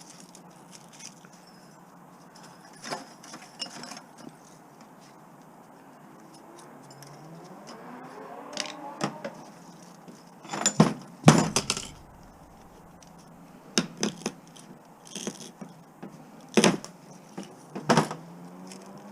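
Scattered metallic clinks and knocks from washing-machine and dishwasher motors being handled and taken apart for their copper, with a heavier thud and a burst of clatter about eleven seconds in.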